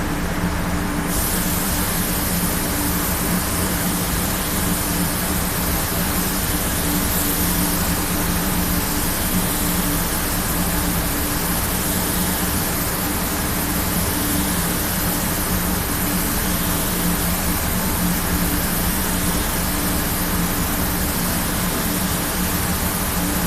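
Steady hiss of compressed air over the low, even hum of a machine, typical of spray-painting equipment. The hiss grows brighter about a second in and then holds steady.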